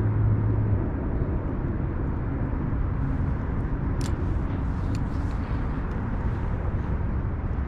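Wind buffeting an action-camera microphone: a steady low rumbling noise. A low hum underneath stops about a second in.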